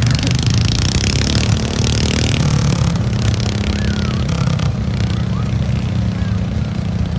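Engine of a tractor-pull vehicle running hard under load, loud and steady.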